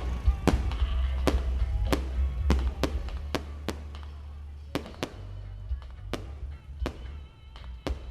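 Aerial fireworks bursting: a dozen or so sharp bangs at irregular intervals, about one to two a second, getting fainter toward the end, with music playing underneath.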